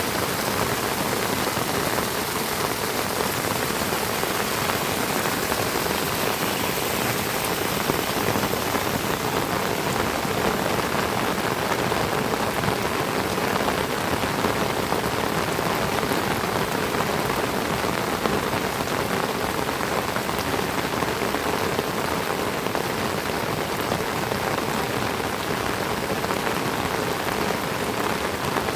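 Heavy tropical rain falling steadily, a dense even hiss of drops.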